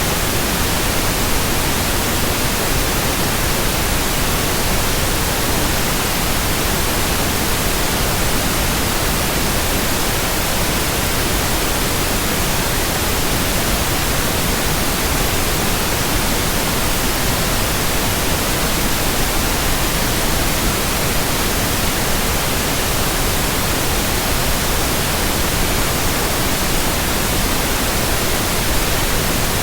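Steady white-noise hiss, even across low and high pitches, with no rhythm, tone or change in level.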